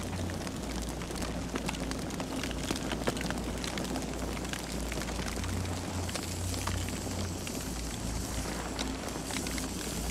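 Campfire crackling: frequent sharp pops and snaps of burning wood over a steady low rumble from the fire.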